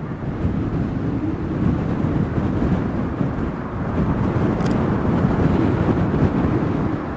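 Deep rumbling roar of a jet airliner's engines at the airport, with gusty wind buffeting the microphone.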